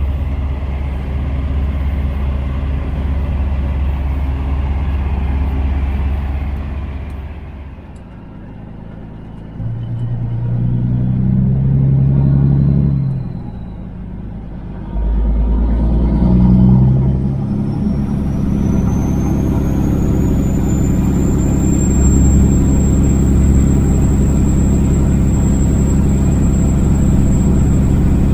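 Kenworth W900 semi truck's diesel engine heard from inside the cab while driving, pulling steadily. Twice in the first half the engine sound drops away briefly and comes back at a different pitch, like gear changes, and then it runs steady with a thin high whine rising in and holding.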